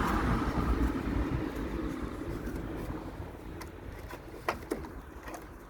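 Drain pump of a Toshiba top-loading washing machine running with a steady hum that fades gradually, with two sharp clicks near the end. The pump running as soon as the machine is switched on is the E95 fault, which the owner traces to a loose black wire on the pressure switch.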